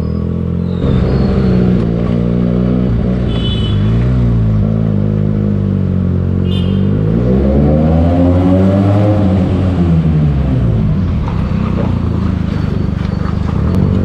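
Benelli TNT 300 parallel-twin engine through an aftermarket Akrapovic exhaust while riding. The engine note rises and falls with the throttle, climbing to its highest pitch about eight to nine seconds in and dropping back about a second later.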